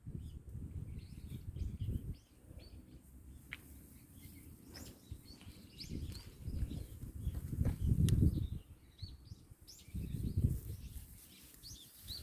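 Small birds chirping in short, high calls scattered throughout, more often in the second half. Gusts of wind buffet the microphone in low rumbles near the start, around the middle and near the end.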